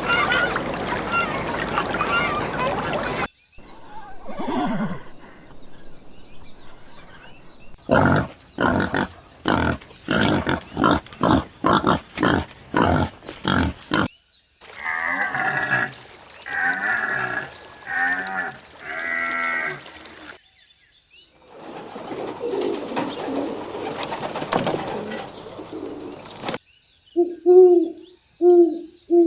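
A run of separate animal-call recordings, one after another. Geese honk in a dense flock chorus for about the first three seconds. Several different calls follow: a fast, evenly spaced series of sharp calls, then pitched, wavering calls. Near the end an owl hoots in short, low, repeated hoots.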